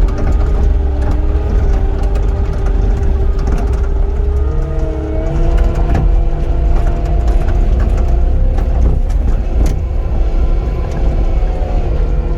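Cat 259D compact track loader's diesel engine running at working speed under load, its pitch stepping up about four and a half seconds in, over a steady low rumble with a few short knocks.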